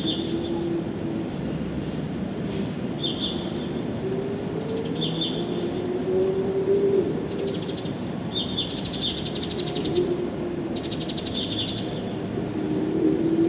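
A songbird repeating a short song phrase of high chirps and a buzzy trill about every two to three seconds. Underneath is a steady low rumble with a droning tone that slowly rises in pitch.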